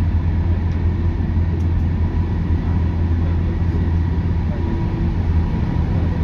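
JR West 201 series electric train running at steady speed, heard from inside the car near the line breaker: a steady low rumble with a faint constant whine above it.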